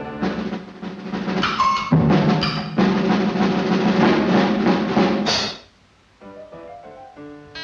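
Cartoon score: a loud, fast snare drum roll with other percussion, with a short falling note about a second and a half in. It stops suddenly near the end, and a few light plucked notes follow.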